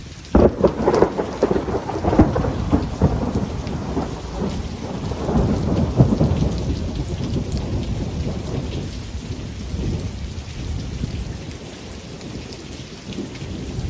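Thunder from a nearby lightning strike: it crashes in about half a second in, rolls and crackles for several seconds, then dies down to a low rumble. Steady rain falls throughout.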